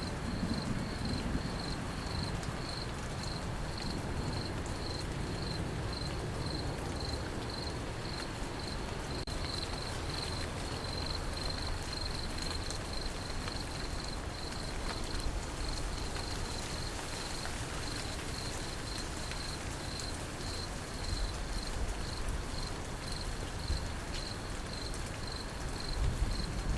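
Crickets chirping in a steady, evenly spaced rhythm over continuous steady rain. A low thunder rumble fades just at the start, and another begins to build near the end.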